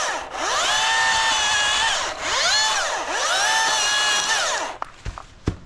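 Cordless electric chainsaw running at full speed through a maple limb, its whine dropping away and climbing back twice as the trigger is eased and squeezed again. It stops near the end, followed by a few short knocks.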